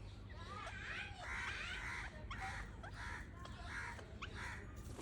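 Parrot calling: a series of short squawks, roughly one or two a second, some rising in pitch.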